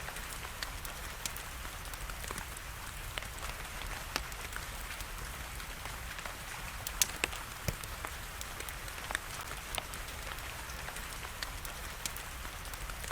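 Wood fire crackling, with irregular sharp pops that come thickest about seven seconds in, over a steady hiss of rain.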